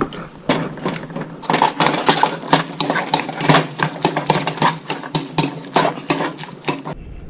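A spoon stirring diced peppers, tomatoes and onions in a bowl, clicking and knocking against the bowl about three or four times a second, irregularly.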